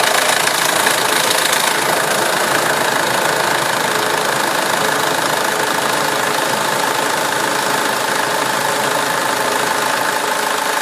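SsangYong Kyron engine idling just after start-up on fresh oil, a little louder in the first couple of seconds, then steady. The owners take an odd sound at this start-up for brief oil starvation while the new oil filter was still soaking up oil.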